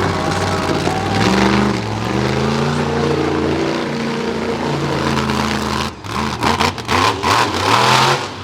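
Monster truck engine revving, its pitch rising and falling repeatedly. In the last couple of seconds it turns into a run of loud, choppy bursts.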